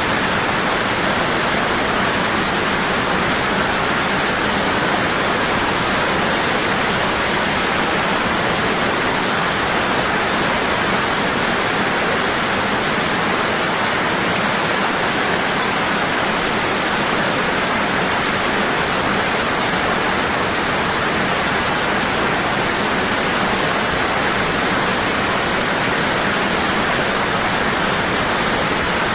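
Waterfall: water falling strong and steady in a constant rushing hiss.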